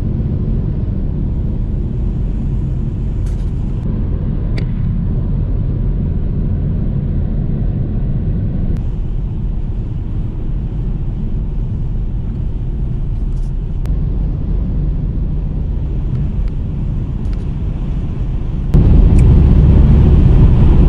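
Car on the move: a steady low rumble of engine and tyres on the road, with a few faint clicks. Near the end it suddenly jumps louder.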